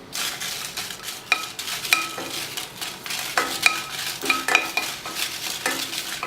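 Spatula stirring and scraping dried red chillies being lightly roasted in a dry pan: a steady rustling with frequent sharp clacks of the spatula against the pan, several of them ringing briefly.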